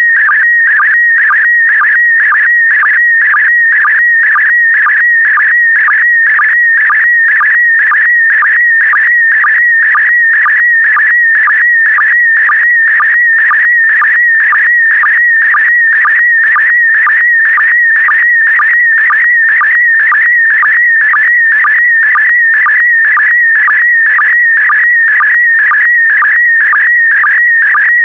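Slow-scan TV (SSTV) image signal in PD120 mode: a loud, continuous warbling whistle-like tone, broken by a short, lower-pitched sync blip about twice a second, each blip marking the start of a new pair of scan lines as a picture is sent.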